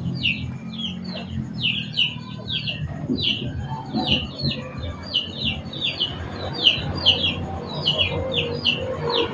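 Small birds chirping in a rapid, continuous string of short high-pitched notes, over a low rumble.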